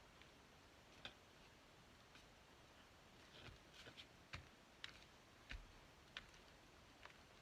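Near silence with faint, irregular light clicks and taps, about eight of them, from paper and craft supplies being handled on a work table.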